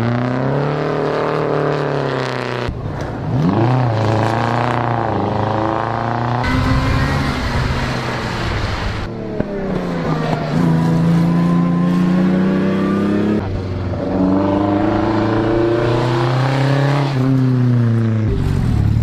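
Vintage race car engines revving and accelerating, their pitch rising and falling, in several short clips cut one after another.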